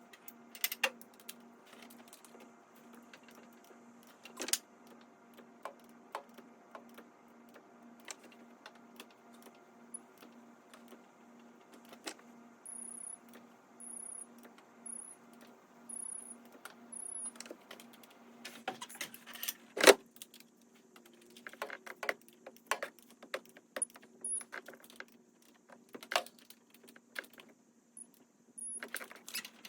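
Hand tools working on a 7.3 Powerstroke diesel's injector hold-down bolts: scattered metallic clicks and clinks of a socket and torque wrench, with one sharp metal clack about two-thirds of the way in. A faint steady hum runs underneath.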